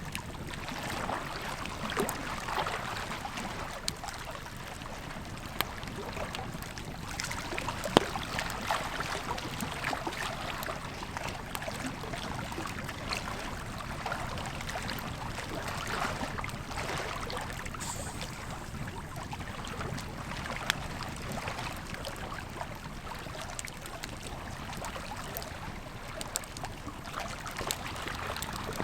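Wood campfire crackling and popping over the steady rush of a river, with a sharper pop about eight seconds in and another around twenty seconds.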